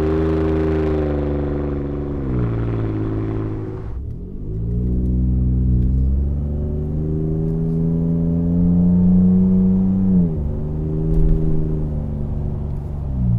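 Ford F-150 3.5L EcoBoost twin-turbo V6 through a Flowmaster Outlaw single cat-back exhaust, a deep, raw note while driving. The pitch eases down about two seconds in. After a change to a duller, muffled take about four seconds in, it climbs slowly under acceleration and drops sharply at a gear change about ten seconds in.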